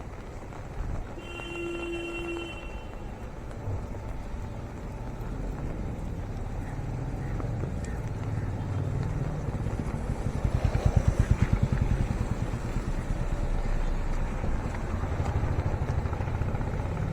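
Road traffic going by, with a brief horn toot about a second in. A motorcycle engine passes close about ten seconds in, its rapid pulsing the loudest thing heard.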